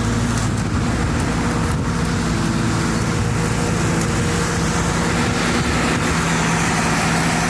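Lincoln SAE-400 engine-driven welding machine running steadily, its engine giving a steady low hum; the engine note shifts slightly about six seconds in.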